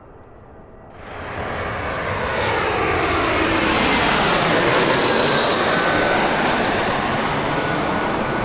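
Jet airliner's engines passing close by: the noise rises sharply about a second in and stays loud, with a high whine and a sweeping, phasing character as the aircraft goes past.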